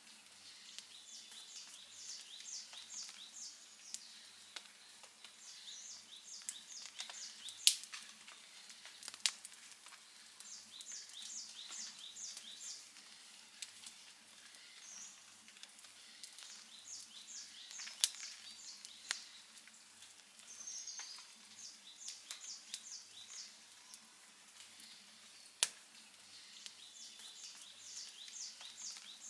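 Wood fire crackling softly, with several sharp pops. A high chirping call of about five quick notes repeats every few seconds in the background.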